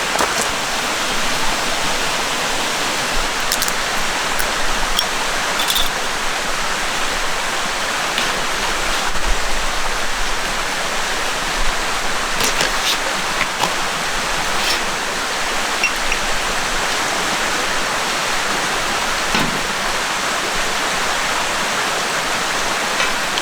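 Mountain stream flowing over rocks, a steady, even rush of water close by, with a few faint clicks over it.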